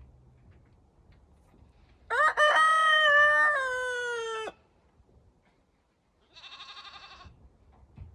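A rooster crows once, a loud call lasting about two and a half seconds that sinks a little in pitch towards its end. A few seconds later a goat bleats, more quietly, with a wavering call.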